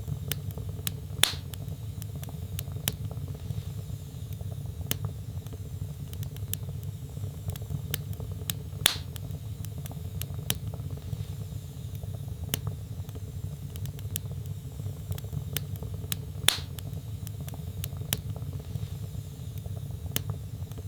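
Wood fire burning in a fireplace: scattered crackles over a steady low rumble, with three louder pops about a second in, around the middle and about three-quarters through.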